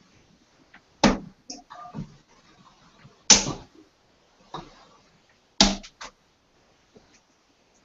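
Three darts striking a dartboard one after another, each a sharp thud, a little over two seconds apart.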